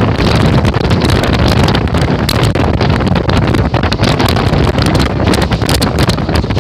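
Heavy wind buffeting the microphone at the open window of a moving electric local train, over the steady rumble of the train running on the track.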